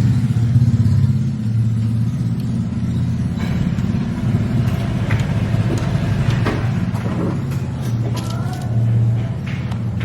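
Suzuki Raider R150 motorcycle engine idling steadily with its VMAX conical aftermarket exhaust, with light metallic clicks and taps from about four seconds in.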